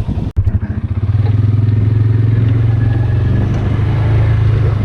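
Engine of a Polaris utility vehicle running steadily with a low, even hum. The sound drops out for an instant about a third of a second in.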